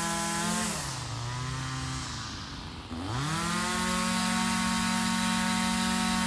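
Small two-stroke engine running at high revs, falling in pitch about half a second in, sagging lowest near three seconds in, then climbing back to full speed and holding there.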